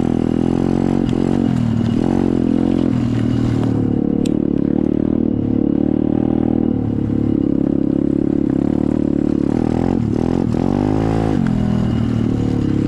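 SSR 125 dirt bike's single-cylinder four-stroke engine running steadily. Its pitch dips and climbs back twice, once about two seconds in and again near the end, as the throttle is eased off and opened again.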